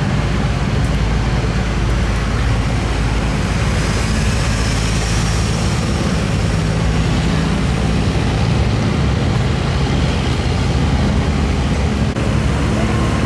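A boat engine running at a steady speed with a constant low drone, under a steady rush of water and wind.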